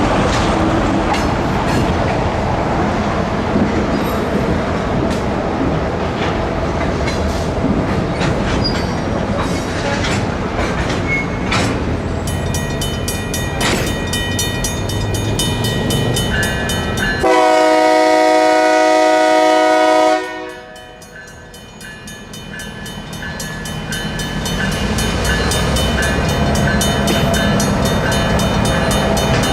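Freight train with a UP GP38-2 diesel locomotive at a grade crossing: rumbling rail and engine noise with clicks, then the crossing's Safetran mechanical bell ringing rapidly from about twelve seconds in. A single long locomotive horn blast of about three seconds is the loudest moment, after which the locomotive's engine noise grows louder again as it nears.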